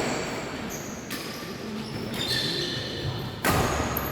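Badminton play: sport shoes squeaking briefly on the court floor, with a louder noisy burst near the end.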